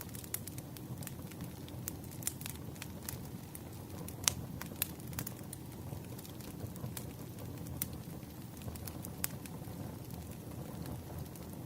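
Wood campfire burning with a low steady rush and scattered sharp crackles and pops, the loudest about four seconds in.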